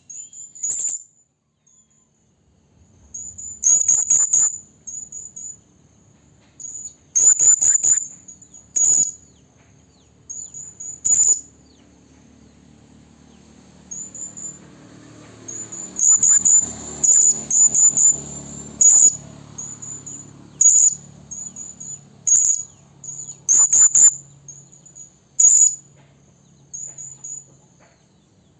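Serindit (hanging parrot) calling: very high, thin, sharp chirps, singly and in quick runs of two to five, repeated irregularly. It is a lure call, a female calling for males.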